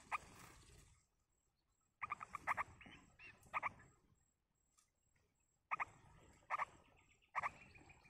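Bulbuls chirping at a nest while chicks are fed: quick bursts of short, sharp chirps come about four times, with soft rustling of the nest and feathers after each burst.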